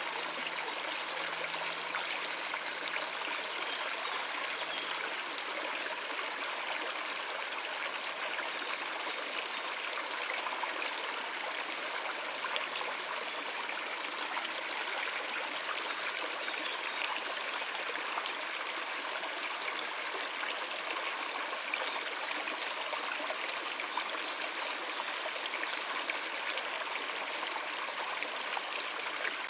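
Stream of water running over rocks, a steady rushing and splashing with no let-up.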